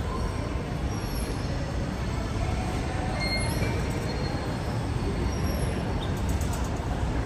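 Steady low rumble of a Sydney electric train running through the underground station, with a few faint, brief high wheel squeals.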